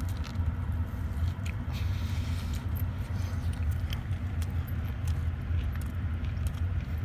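Biting into and chewing a fried chicken tender with syrupy waffle, with small wet mouth clicks scattered throughout, over a steady low hum inside a car.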